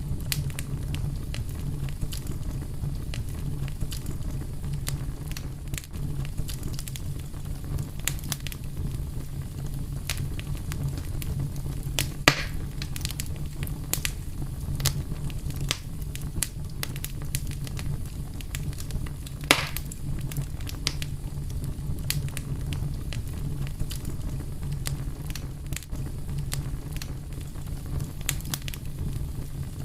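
Fire crackling: a steady low rumble of burning with many small pops and snaps, and two louder snaps near the middle.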